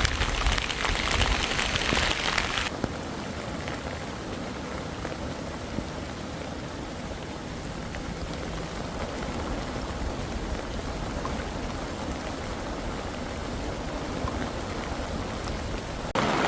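Heavy rain pouring down, a steady hiss of water. It is louder at first, drops abruptly to a quieter steady rain about three seconds in, and jumps back up just before the end.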